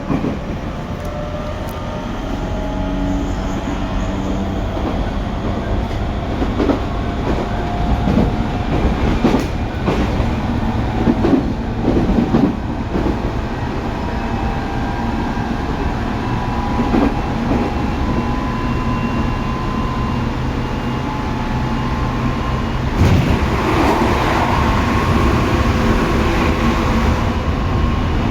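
Tobu 9050 series electric train's VVVF inverter and traction motors whining over a steady running rumble, the pitches slowly rising as the train gathers speed. The wheels knock over rail joints a few times partway through, and the running noise grows louder and rougher near the end.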